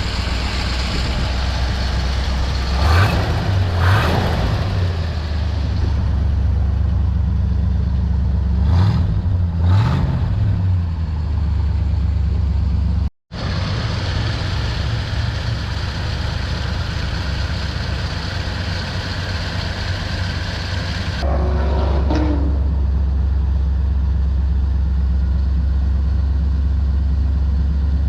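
1956 Ford Thunderbird's V8 engine idling steadily, with the throttle blipped a few times about three and ten seconds in.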